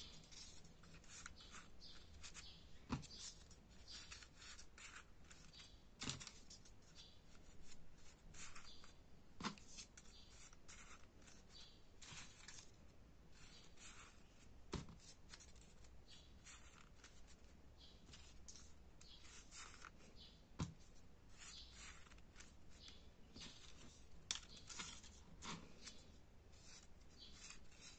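Folded paper origami units rustling and crinkling as they are handled and pressed together, in short irregular bursts, with a few sharp taps.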